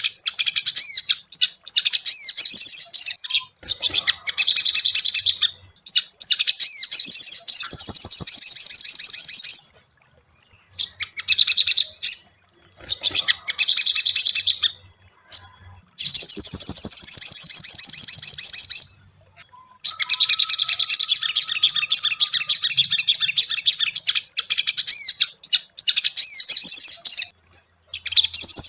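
Ruby-cheeked sunbird (sogon, sogok ontong) singing in long bouts of rapid, high-pitched chattering twitters, broken by a few short pauses.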